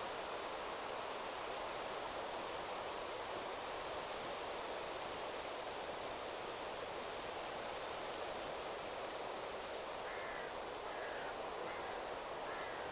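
Wind rustling steadily through forest trees, with faint, brief high bird chirps scattered throughout and a few harsher bird calls in the last few seconds.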